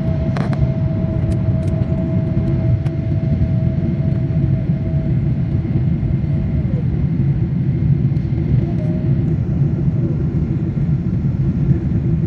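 Steady rumble of a moving vehicle heard from inside its cabin, with a faint steady whine over it that drops in pitch about six and a half seconds in.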